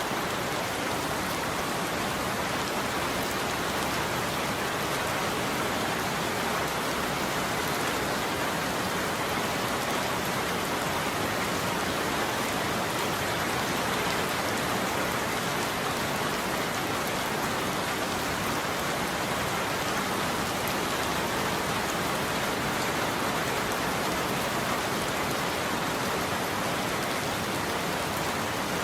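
Steady heavy rain falling on a roof, an even, unbroken patter.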